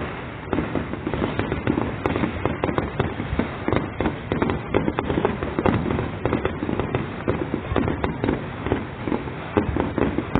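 Fireworks display: a continuous barrage of rapid, overlapping bangs with no pause.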